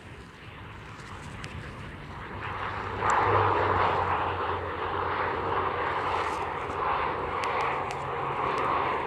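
Airliner engines passing close: the engine noise builds over the first three seconds, then stays loud and steady.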